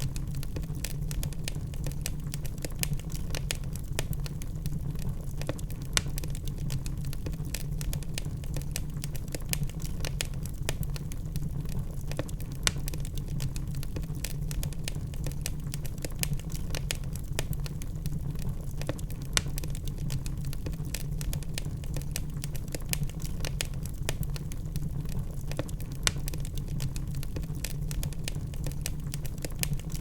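Logs burning in a fireplace, crackling constantly with many small snaps and an occasional louder pop over a steady low rumble of the fire.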